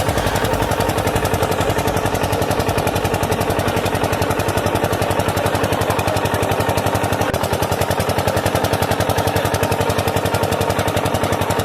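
A small motor-driven mechanism running with a steady, rapid rattle of about a dozen pulses a second.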